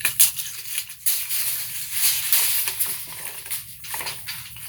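A 30-foot steel tape measure with its blade running along the case, making a continuous scraping rattle with a sharp click or snap just after the start.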